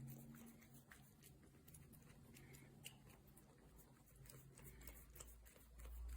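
Near silence with faint, scattered small clicks and a low hum.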